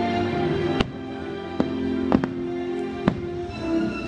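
Fireworks bursting in about five sharp bangs, two of them in quick succession midway, over continuous show music.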